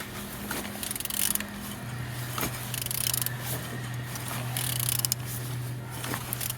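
A used engine's crankshaft being turned over by hand, giving irregular mechanical clicks and scrapes over a steady low hum. The engine turns freely.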